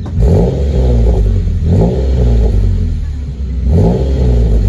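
Ford Mondeo ST220's 3.0-litre V6 revved in three short blips over idle through a TIGS aftermarket exhaust, each rev rising and falling back. The owner thinks this exhaust doesn't sound brilliant.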